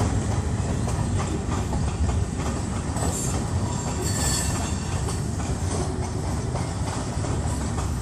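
Freight train cars rolling past at close range: a steady rumble of steel wheels on rail, with clicks of wheels over rail joints and brief high-pitched squeals near the middle.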